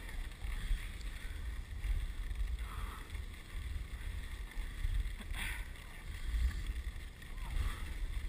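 Dog sled running along a snow trail: a steady low rumble of wind and runner noise on the microphone, with a short faint knock about five seconds in.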